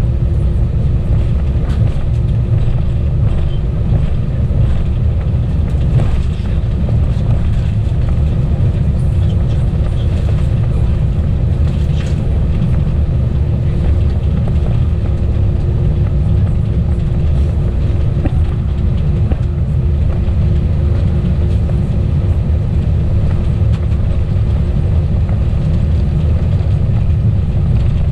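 Steady cabin noise inside an Airbus A320: a constant low engine and airflow rumble with a faint steady hum above it, unchanging throughout.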